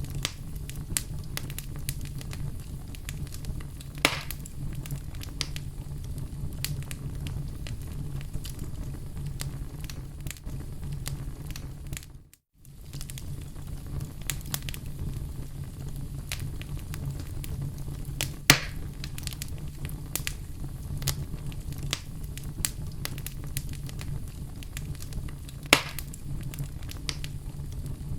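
Wood fire crackling: a steady low rumble with many small crackles and three louder pops. The sound drops out for a moment about halfway through.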